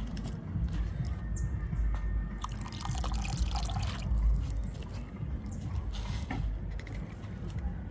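Liquid bubbling and splashing in a cooking pot of chicken and water, over a steady low rumble, with a louder hissing stretch a few seconds in.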